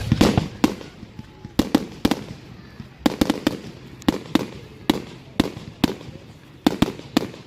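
Fireworks going off: a long irregular string of sharp bangs, sometimes two or three in quick succession, each with a short echoing tail.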